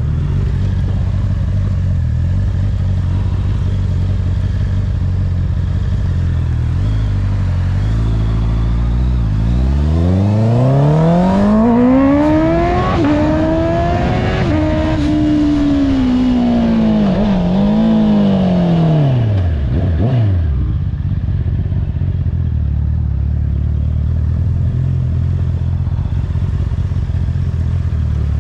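Honda CBR650R inline-four motorcycle engine through an Akrapovic exhaust, running steady and low, then rising smoothly in pitch about ten seconds in, holding high for several seconds and falling back to a steady low note around twenty seconds in.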